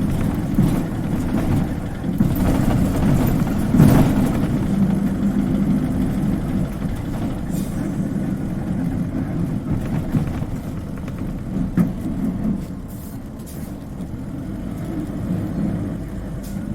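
Isuzu Cubic KC-LV380N city bus engine and drivetrain heard from inside the cabin while the bus is under way, a steady low hum that swells about four seconds in and eases off about two-thirds of the way through.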